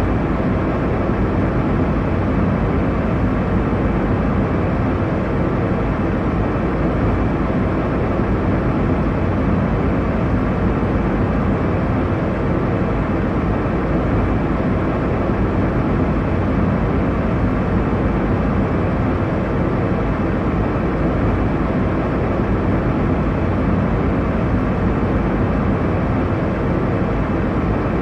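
Steady airliner cabin noise: a constant low rumble and rush of engines and airflow heard from inside the cabin in cruise, even and unchanging.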